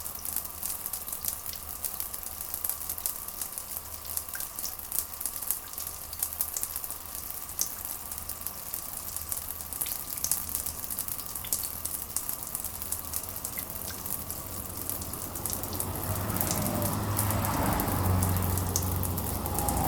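Steady rain with many fine drops pattering on a surface. A low rumble builds near the end and the overall sound grows louder.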